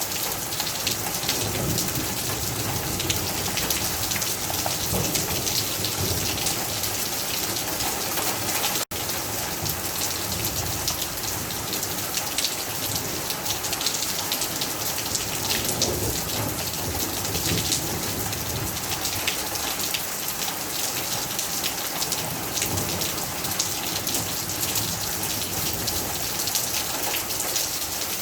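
Heavy rain falling steadily, a dense patter of drops, with deeper rumbling swells at times. The sound cuts out for an instant about nine seconds in.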